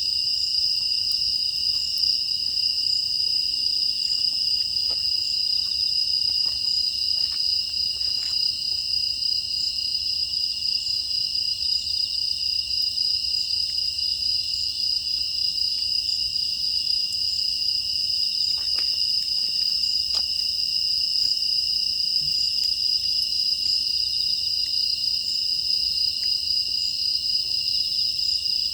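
A steady, unbroken chorus of crickets and other grass insects chirring, with a few faint scattered crackles of burning firewood.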